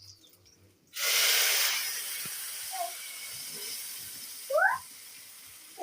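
A cooking pot of beans lets out a sudden loud hiss of steam about a second in, which slowly dies down over the next few seconds.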